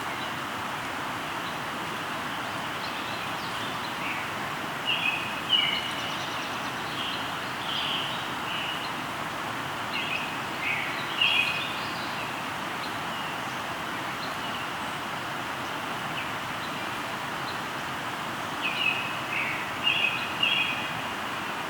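A river flowing with a steady rushing sound, while songbirds give short runs of chirps four or five times over it.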